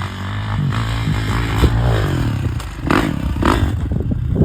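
Dirt bike engine revving hard through a ramp jump, with several sharp clattering thuds; the loudest comes near the end.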